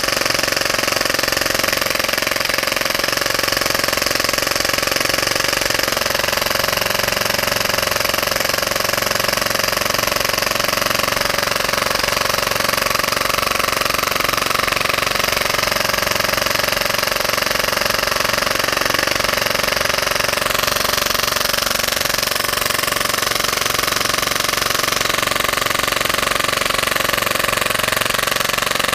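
Full-auto Tokyo Marui Hi-Capa gas blowback airsoft pistol dry-firing continuously with no magazine, its slide cycling in a fast, steady rattle.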